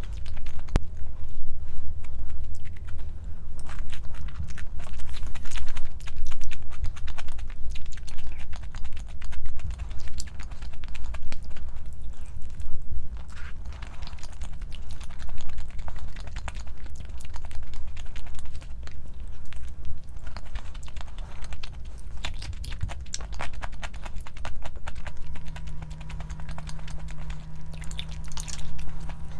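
Close-miked eating: crunchy chewing with many small, sharp clicks, over a steady low hum. A steady low tone joins about 25 seconds in.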